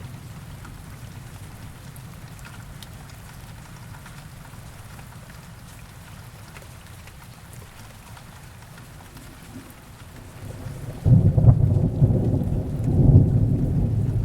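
Heavy rain falling steadily under a low thunder rumble; about eleven seconds in, a much louder low thunderclap rolls in and keeps rumbling.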